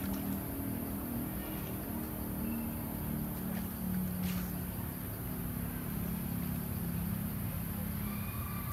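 A small engine running steadily, its low pitch wavering slightly.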